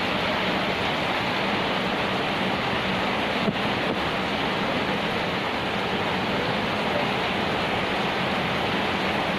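Rain falling steadily, an even dense hiss with no breaks.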